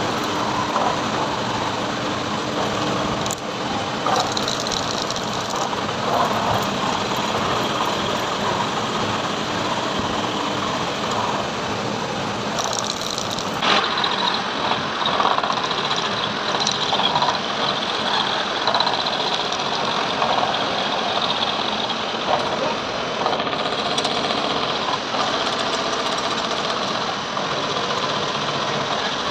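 Heavy CNC machining noise: a machine tool running and cutting metal, a dense, steady clatter and hiss. It changes character briefly about 14 seconds in.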